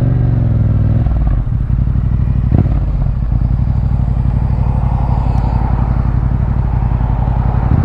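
2021 Yamaha MT-07's 689 cc parallel-twin engine through an Akrapovic full carbon exhaust, easing off as the bike comes to a stop and then idling steadily.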